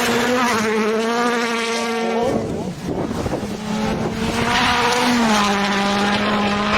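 Rally car engine running at high revs with a steady, buzzing whine. The whine breaks off briefly about two and a half seconds in, returns, then steps down in pitch a little past five seconds in.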